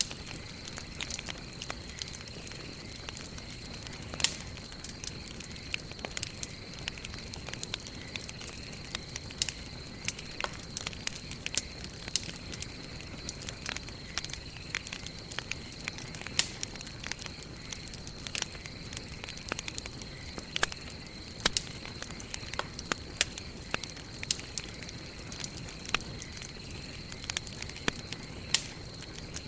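Wood campfire burning, with dense, irregular crackles and sharp pops, a few much louder than the rest, over a soft steady hiss.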